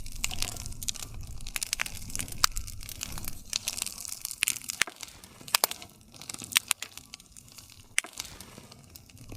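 Wood campfire crackling: irregular sharp pops and snaps of burning wood over a soft low rumble of the flames.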